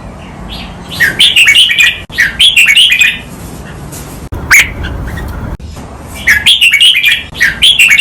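Red-whiskered bulbul singing a doubled song: a run of quick, loud notes about a second in, repeated near the end, with a single sharp note between them.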